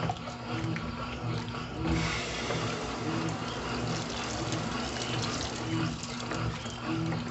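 Brastemp Intelligent 7 kg washing machine running mid-cycle: water rushing and swishing in the tub over a steady hum with a soft pulse about once a second. The rush of water grows louder about two seconds in.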